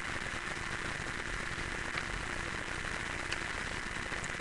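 Steady crackling hiss from a noisy microphone, with a few faint ticks as a sheet of paper is handled and folded.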